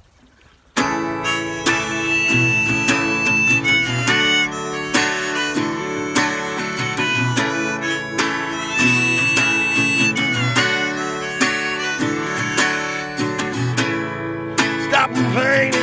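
Instrumental song intro: acoustic guitar strumming under a harmonica playing long held notes, starting about a second in.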